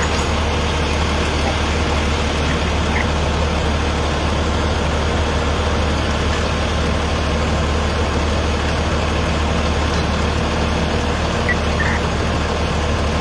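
A heavy vehicle's engine idling, a steady low rumble that holds even throughout.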